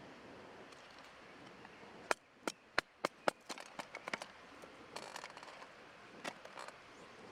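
Five sharp knocks about a third of a second apart, followed by lighter scattered clicks and taps over a faint steady background.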